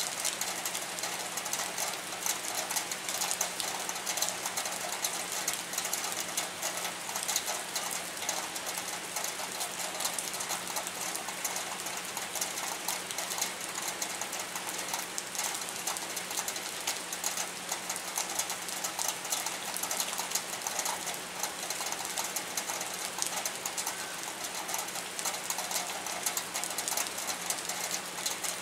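Steady rain pattering in dense, fast drops on hard surfaces, over a faint low steady hum.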